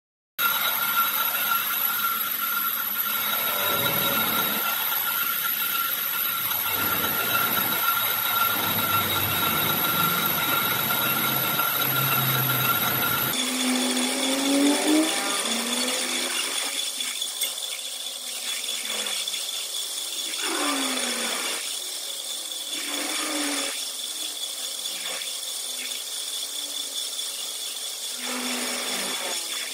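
Power tool running with a steady high whine while resurfacing a truck flywheel. It starts abruptly, and about 13 seconds in the whine changes to a different pitch.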